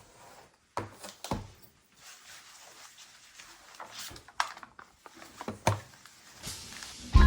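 A few light, scattered knocks and clicks over faint room noise, with music starting right at the end.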